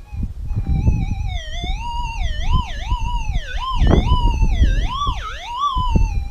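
Minelab SDC 2300 metal detector's audio signal, a tone that warbles up and down in pitch several times as the coil passes over the targets. Wind rumbles on the microphone underneath.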